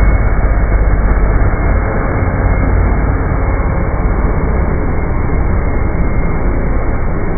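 Dirt Devil Ultra Vision Turbo upright vacuum cleaner running steadily, with a deep rumble that is heavier for the first two seconds and then eases.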